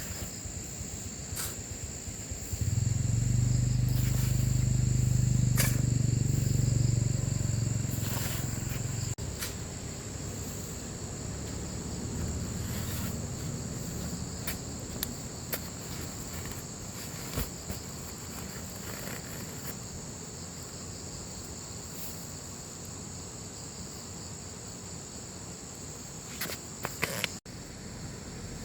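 Insects shrilling steadily at a high pitch, with scattered small clicks. A few seconds in, a low droning hum, like a motor, rises and runs for about six seconds, then fades to a quieter rumble.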